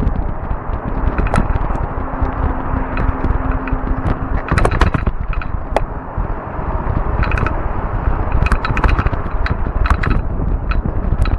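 Fat-tire e-bike on the move: a steady low rumble of wind and tyres on the microphone, broken by frequent sharp clicks and rattles, with a faint steady hum from about one to four seconds in.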